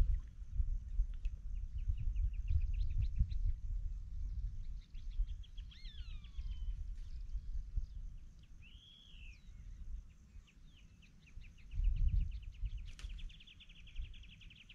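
Birds calling: several rapid trills, a couple of falling whistles around six seconds in, and a long fast trill near the end. Under them runs a gusty low rumble of wind on the microphone.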